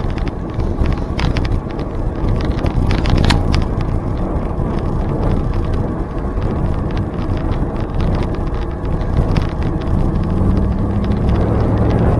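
Wind buffeting the microphone of a camera riding on a moving bicycle, with scattered clicks and rattles. A low steady hum joins in near the end.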